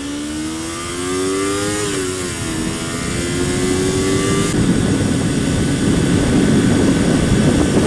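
Kawasaki Ninja 250's parallel-twin engine accelerating away from a stop, its pitch rising, dropping at an upshift about two seconds in, then rising again. About halfway through, a steady rush of wind noise takes over and covers the engine.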